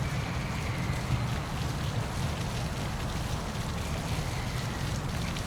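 Steady rush of water falling at a park waterfall, with a strong low rumble under it.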